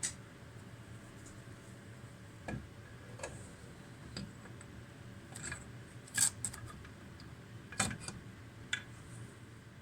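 Scattered light metallic clicks and clinks of motorcycle engine parts and hand tools being handled during assembly, about nine in all, the sharpest about six seconds in, over a faint low hum.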